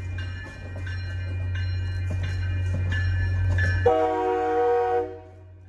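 MBTA commuter train passing a grade crossing: the crossing bell dings about every 0.7 s over the train's low rumble, then the train's horn sounds one blast of about a second near the end.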